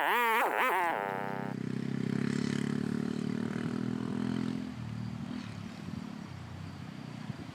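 A warbling, wavering pitched sound for the first second and a half, then a motorcycle engine running at a steady low speed that fades out about five seconds in.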